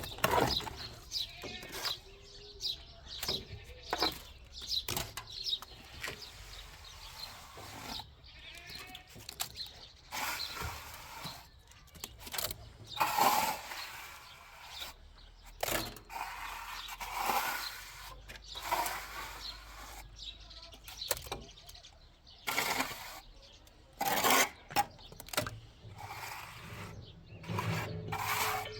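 Livestock bleating several times, mixed with a run of short sharp knocks and scrapes in the first few seconds.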